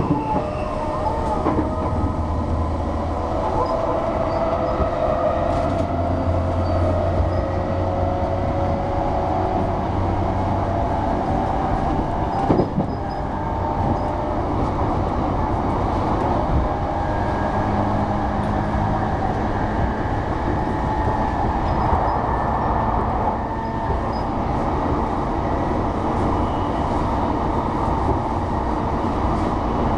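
JR E233-3000 series electric commuter train running at speed, heard from inside the carriage: a steady rumble of wheels on rail, with one sharp click about twelve seconds in.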